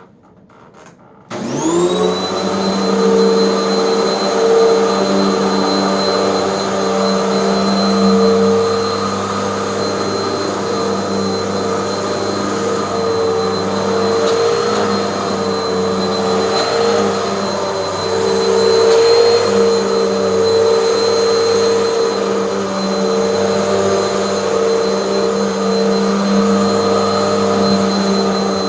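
Hoover bagless vacuum cleaner switched on about a second in, its motor spinning up with a rising whine and then running steadily with a high whistle over the motor hum.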